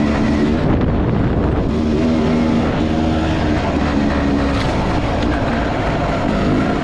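Enduro motorcycle engine running under way, its pitch wavering up and down with the throttle, over a steady low rumble.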